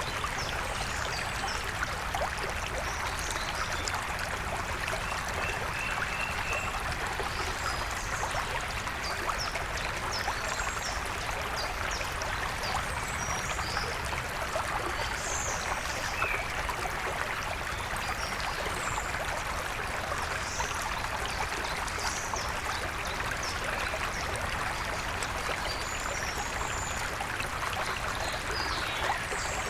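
A river stream flowing with a steady rushing and splashing of water, while wild birds call in short, scattered high chirps throughout, with a brief run of repeated notes about five seconds in.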